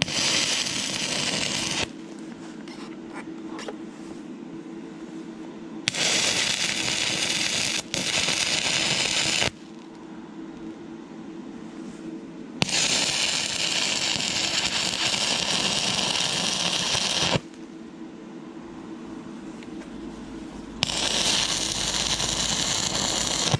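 Stick-welding arc from an inverter arc welder burning 6011 rod on thin, rusty, painted steel: the arc runs in four bursts of a few seconds each and stops between them. A steady low hum runs underneath.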